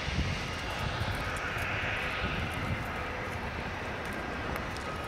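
Freight train of tank cars rolling past: a steady rumble of steel wheels on rail.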